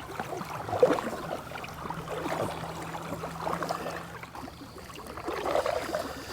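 Water trickling and dripping at a canoe on a lake, with a few faint small clicks. A faint low steady hum comes in about two seconds in and fades out a couple of seconds later.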